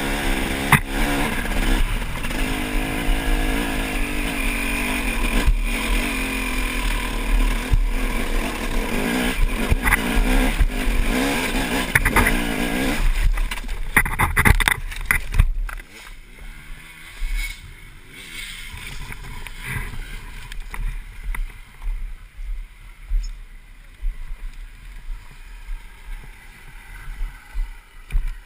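Honda CR250 two-stroke dirt bike engine revving hard and unevenly on a steep climb. Just past the middle, the engine sound cuts off abruptly, leaving only quieter, irregular knocks and rustles.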